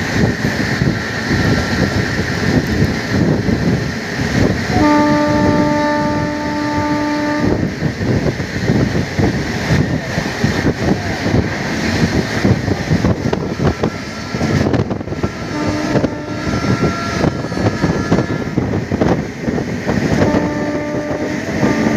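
A train horn sounds one long blast about five seconds in and a few shorter notes later, over the steady rushing rumble of a WAP-7 electric locomotive running at speed.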